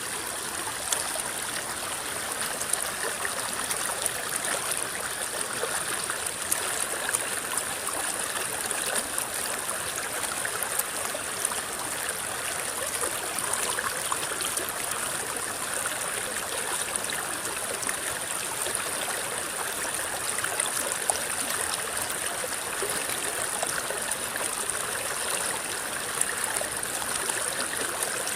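River water flowing and rippling in a steady babble, with small trickles and splashes throughout. A steady high-pitched hiss sits above the water.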